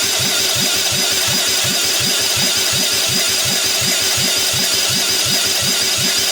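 Freshly rebuilt GX200-clone single-cylinder engine running on its first start after assembly, with a regular low pulse about three times a second.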